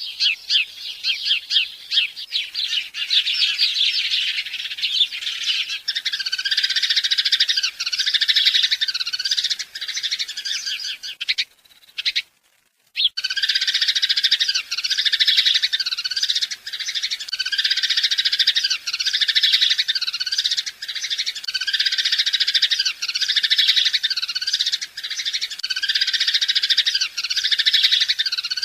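Birds chirping continuously in a dense, busy chorus. It cuts out to near silence for about a second roughly twelve seconds in, then resumes.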